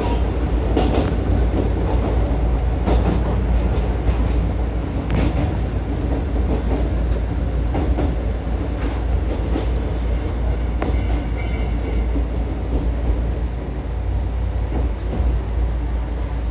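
Electric commuter train running along single track, a steady low rumble from inside the car, with the wheels clacking over rail joints every second or two.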